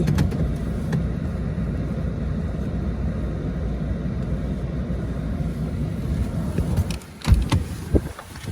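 A motor vehicle running close by as a steady low rumble that cuts off abruptly about seven seconds in, followed by a few sharp knocks.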